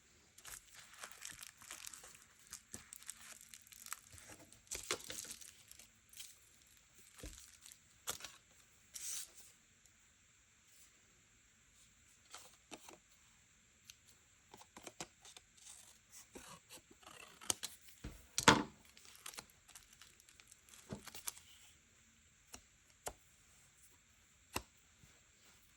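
Paper being torn and rustled by hand in short, irregular spells with quiet pauses, with a single sharper tap about eighteen seconds in.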